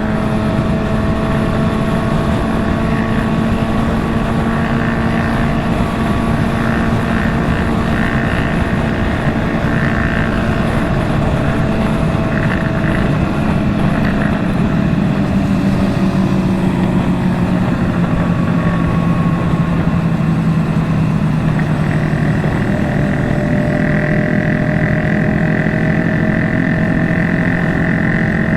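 Motorcycle engines running steadily at highway cruising speed under dense wind and road noise, the engine note shifting slowly in pitch.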